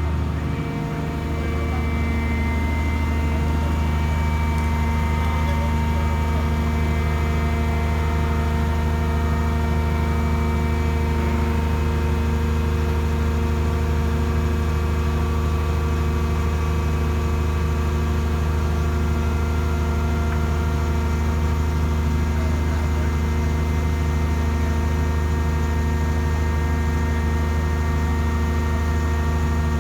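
Hydraulic static pile-driving machine's power unit running steadily: a constant low engine drone with steady overtones that holds unchanged after a slight dip about a second in.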